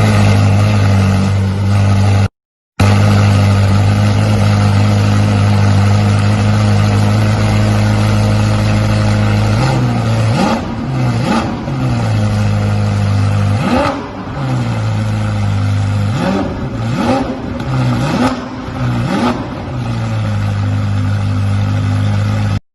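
Ferrari twin-turbo V8 with a straight-piped exhaust idling steadily. About ten seconds in come a series of around eight quick throttle blips, each rev rising and falling back, before it settles back to idle.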